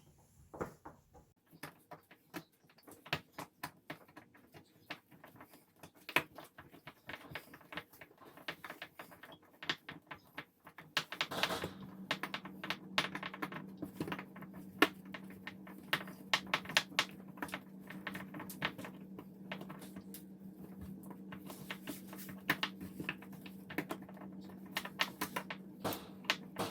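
Small irregular metal clicks and scrapes of a screwdriver undoing the retaining screw of a kitchen mixer tap's lever handle and working the handle loose. About eleven seconds in, a steady low hum starts and carries on under the clicks.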